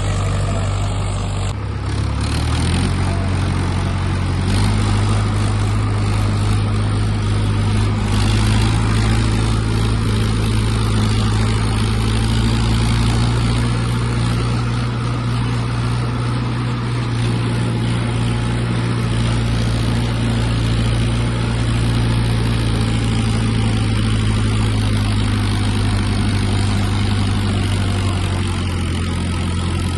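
Tractor engine running steadily, its speed stepping up twice in the first few seconds and then holding.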